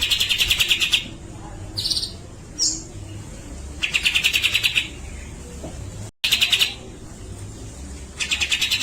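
Grey-cheeked bulbul (cucak jenggot) calling in rapid rattling bursts about a second long, repeated three or four times, with a couple of short single notes between them.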